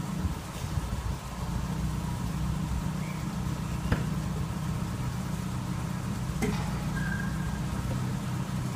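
A car's steady low rumble, with two sharp clicks about four and six and a half seconds in.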